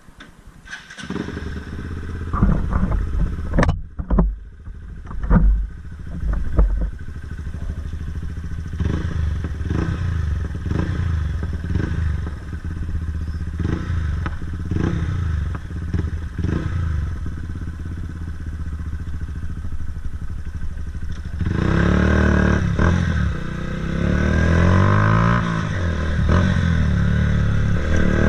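Honda CBF 125's single-cylinder four-stroke engine running through a DanMoto GP aftermarket exhaust. It comes in about a second in, the throttle is blipped several times, it settles near idle with small revs, and from about three quarters of the way through it runs louder, its pitch rising and falling.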